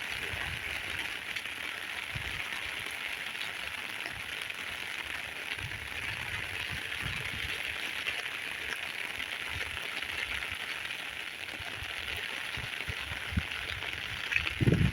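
Heavy rain falling steadily, an even hiss, with soft low thuds here and there and a few louder low thumps near the end.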